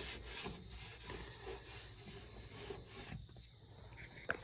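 Steady high chirring of insects, with soft rustling and handling noise underneath and one sharp click about four seconds in.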